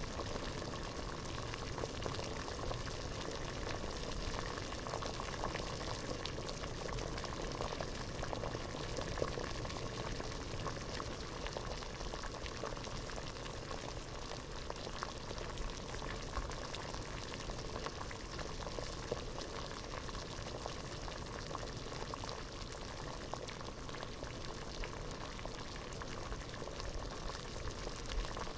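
Water boiling in a pot: a steady bubbling with many small pops and crackles.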